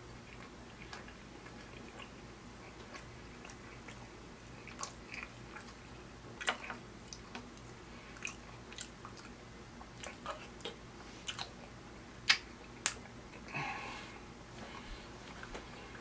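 A person chewing steak and baked beans, with wet mouth smacks and clicks scattered throughout; the two loudest smacks come about twelve and thirteen seconds in.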